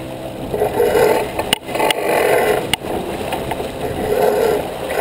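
Water rushing and splashing along a J24 sailboat's hull, surging in waves about every second and a half, with two sharp knocks.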